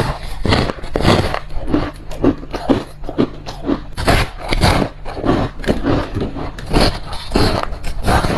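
Ice being bitten and crunched close to the microphone: a steady run of crisp crunches, several a second, with a few louder bites among them.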